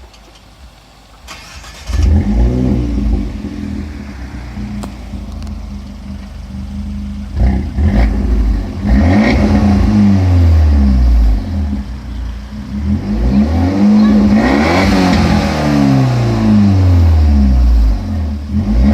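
Fiat 124 Spider Abarth's 1.4-litre turbocharged four-cylinder, breathing through a Flowmaster Super 10 exhaust. It starts about two seconds in with a loud flare that settles into idle, then is revved several times, the pitch rising and falling with each blip.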